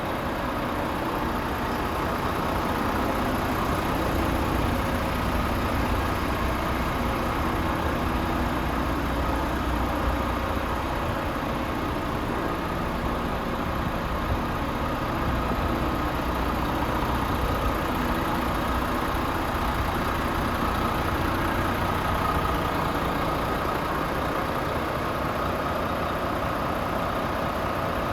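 Renault T460 truck's turbocharged Euro 6 diesel engine idling steadily.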